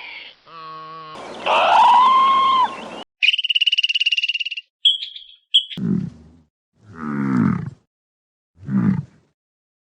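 A run of different farm-animal calls edited back to back: a short pitched cry, a long call that rises and levels off, a rapid pulsing high call, then three short low calls that fall in pitch.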